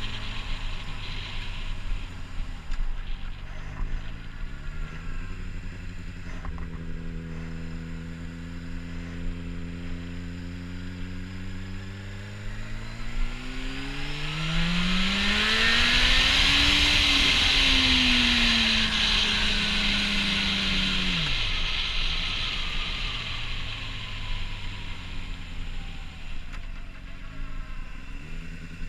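2007 Honda CBR600RR's inline-four engine with a Yoshimura slip-on exhaust idling, then, a little before halfway, revved slowly up over about four seconds, held near the top, and let fall back to idle. It is loudest at the top of the rev, with a rasp over the exhaust note.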